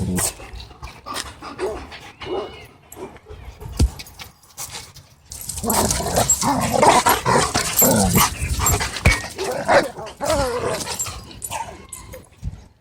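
Several dogs wrestling roughly and barking. The commotion becomes denser and louder from about halfway through to near the end.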